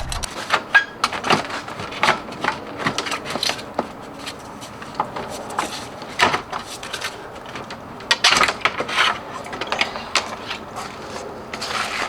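Irregular metal clinks, knocks and scraping of tools and parts being worked by hand during removal of a Toyota Corolla's old starter motor, with a quick flurry of clicks near the end.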